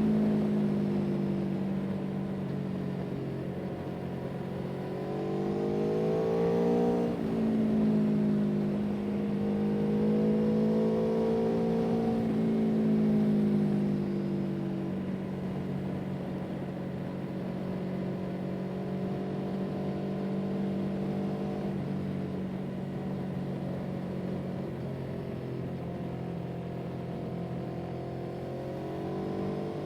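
A vehicle engine running steadily. Its pitch climbs from about five seconds in and drops sharply near seven seconds, then rises gently again a few seconds later and once more near the end.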